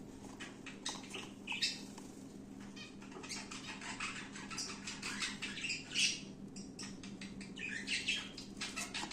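Small cage birds giving short chirping calls a few times, with light clicks and rustles of cardboard being handled over a steady low hum.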